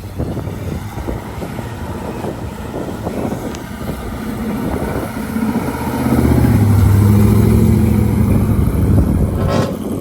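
A car's engine and exhaust with a deep, steady drone, growing louder over the first half and loudest for the last few seconds, then dropping away suddenly near the end.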